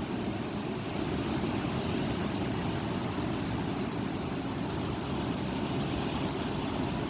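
Strong wind blowing steadily, rushing and rumbling on the microphone.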